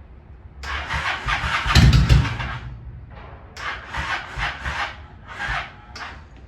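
Electric starter cranking a 2001 Honda Shadow 750 ACE's V-twin in two goes, chugging at about two to three beats a second without catching. It is a hard cold start on a weak, nearly dead battery.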